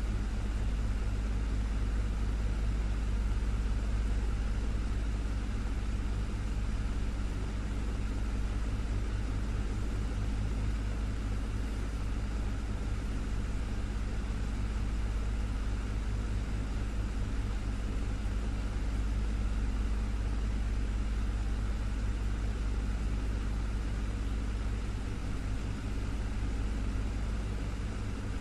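Desktop fan running steadily: a constant deep motor hum under an even rush of moving air, with no change in speed.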